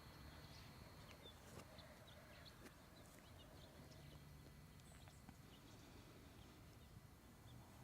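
Near silence: a faint low outdoor rumble with a few scattered faint ticks and small high chirps.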